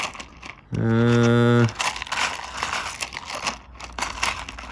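Rough opal pieces being handled and sorted by hand, with a run of small clicks and crinkly rattling. About a second in, a steady low hum lasts about a second and is the loudest sound.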